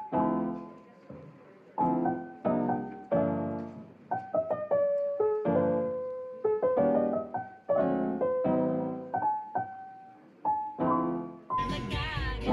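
Background music: a solo piano playing a gentle melody of separate notes that each ring and fade. Near the end a louder hiss of outdoor sound comes in beneath it.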